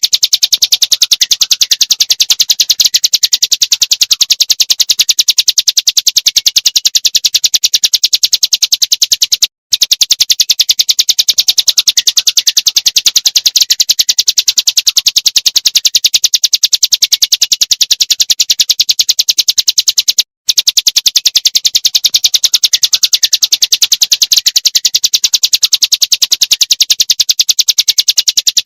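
Small songbird's rapid, high-pitched repeated notes in a fast continuous trill, played as a looped recording that drops out briefly twice, about ten seconds apart.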